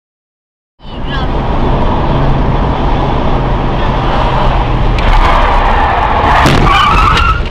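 Road and engine noise inside a moving car, cutting in suddenly about a second in, with a few sharp knocks in the second half.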